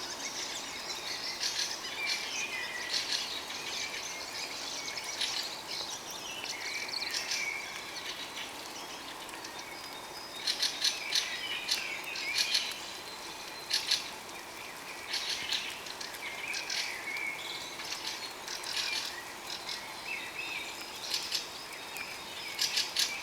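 Dawn chorus: several songbirds singing over one another. Quick runs of sharp, rapid notes are loudest around the middle and again near the end.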